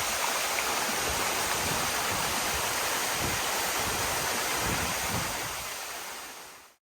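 Steady rushing roar of a tall (70 m) waterfall crashing down, fading out near the end to silence.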